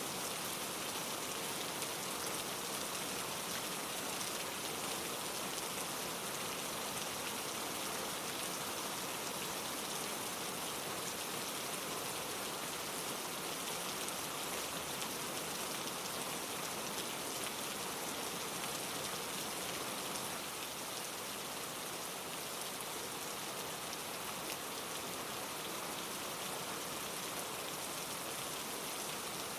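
Steady rain falling on leaves, a continuous even patter of many fine drops.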